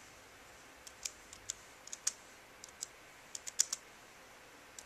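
Typing on a computer keyboard: irregular, uneven keystroke clicks starting about a second in.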